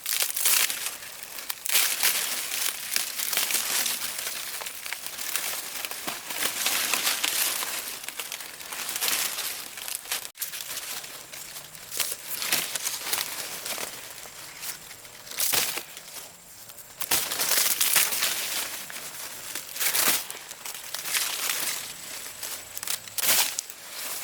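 Irregular dry crinkling and rustling, in bursts of varying loudness.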